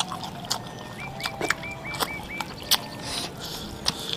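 Close-up eating sounds from a mouthful of spicy tofu balado with rice: wet smacks and clicks of chewing, scattered irregularly. About a second in, a quick run of six short high chirps sounds in the background.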